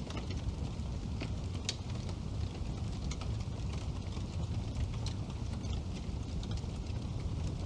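Wood fire burning in a fireplace: scattered sharp crackles and pops over a low, steady rumble of the flames.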